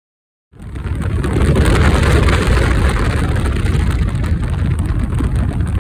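Motorcycle running at road speed, a steady low engine rumble with wind rushing over the microphone. It cuts in abruptly about half a second in, after dead silence.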